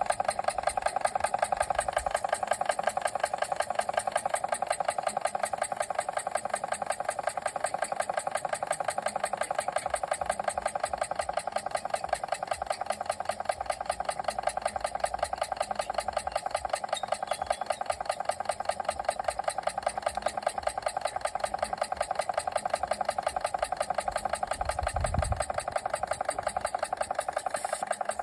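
Machinator Steamfire model steam engine, a single oscillating cylinder with a heavy flywheel, running steadily at slow speed with a fast, even beat.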